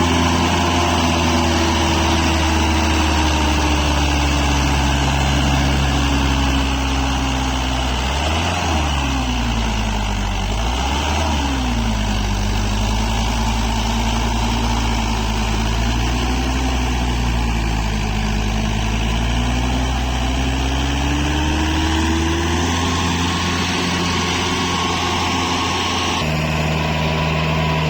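Tractor engine running steadily, revved up and back down twice in quick succession about eight and eleven seconds in, as the tractor works to get free of deep mud. The engine pitch rises slowly again later and shifts abruptly near the end.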